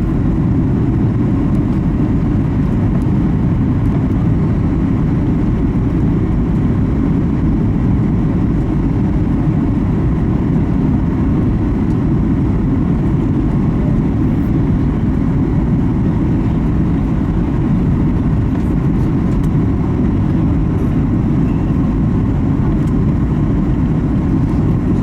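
Steady low cabin noise inside a Boeing 737 MAX 8 on final approach: its CFM LEAP-1B engines and the rush of airflow, heard from a passenger seat.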